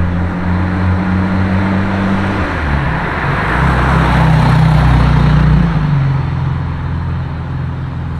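Car engine running at low revs, its note shifting about two and a half seconds in, with a swell of rushing road noise near the middle.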